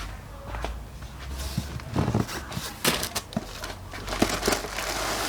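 Irregular clicks and knocks of hand tools and metal parts on a Honda Wave 125 cylinder head while the stock camshaft is being taken out, over a low steady hum.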